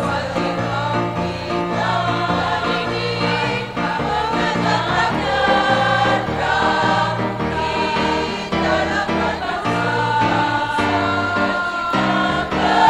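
Choir singing a ceremonial song with steady low notes underneath.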